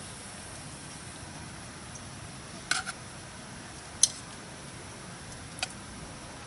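Campfire crackling: a steady hiss with a few sharp pops, the loudest about four seconds in.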